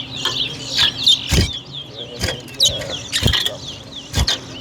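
Caged towa-towa finches singing in quick, repeated high chirping phrases. Four sharp knocks come about a second apart.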